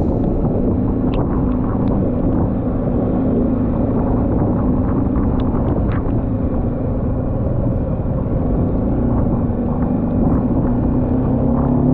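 Motorcycle engine running steadily on the move, under heavy, even wind rush on the microphone, with a few faint ticks.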